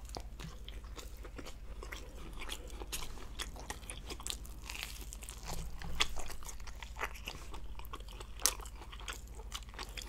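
Close-miked chewing of a bite of tuna steak sandwich with raw honeycomb: wet mouth sounds and a stream of small crackly clicks, with a few louder ones about six and eight and a half seconds in.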